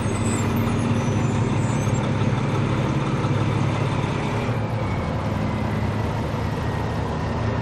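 Big diesel rally truck engines running with a steady, deep low hum.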